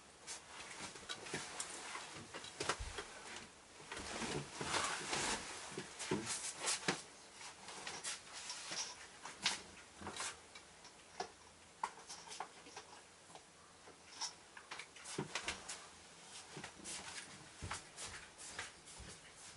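Irregular light taps and clicks, thickest a few seconds in and again near the end, from varied tits landing on and pecking about a seed feeder.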